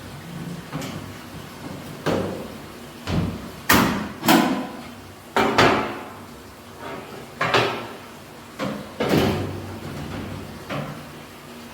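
A string of about ten irregular knocks and clunks, some sharp and ringing briefly, as the dryer's panels and parts are handled.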